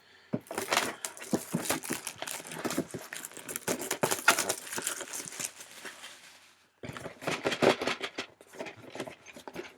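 Rustling and crinkling of packaging and plastic parts handled while a plastic model kit box is opened and gone through, in two spells with a short pause about two-thirds of the way through.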